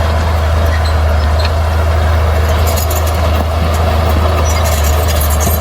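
Bulldozer's diesel engine running steadily under a constant low drone, with scattered light clanks and rattles from the machine at work.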